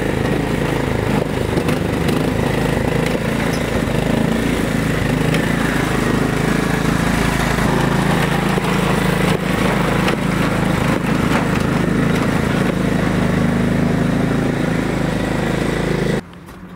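Garden tractor's 16 hp cast-iron Briggs & Stratton single-cylinder engine running steadily, cutting off suddenly near the end.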